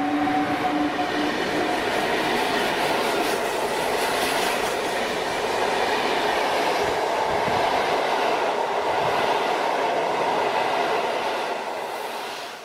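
A train running through the station: a loud, steady rumble and rattle of wheels on track, with a steady whine that fades away in the first second or two. The sound eases off near the end.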